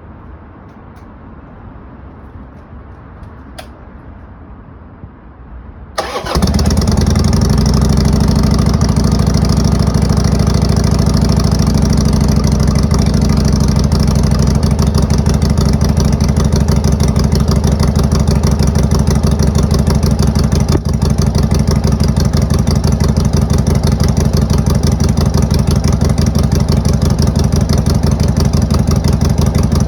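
2002 Harley-Davidson Sportster 883 Hugger's air-cooled V-twin starting up about six seconds in, then idling steadily through Motor Stage brass-end mufflers: a straight-pipe tone at reduced volume.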